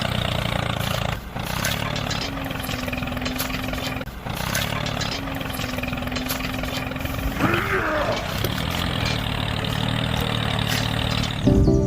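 Small tractor engine running steadily, with two brief drops in level about a second in and about four seconds in.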